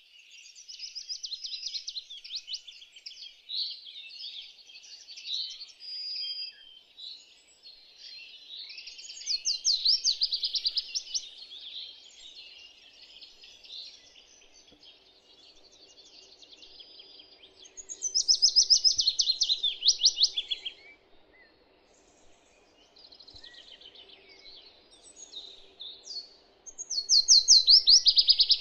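Songbirds singing, with steady softer chirping and a louder trilling phrase that falls in pitch, heard three times about nine seconds apart.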